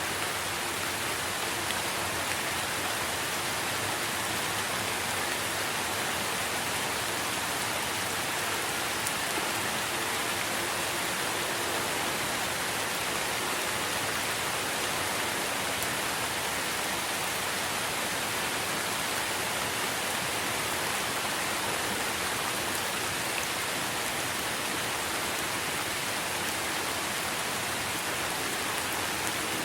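Steady rain falling on tree foliage, an even hiss with no breaks.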